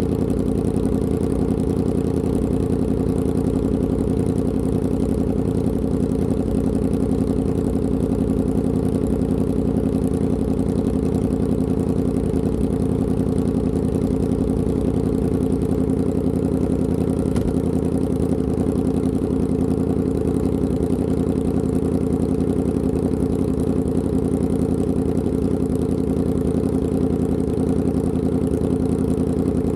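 Yamaha R1M's crossplane inline-four running through an SC Project exhaust at a constant, unchanging engine speed, with no revving.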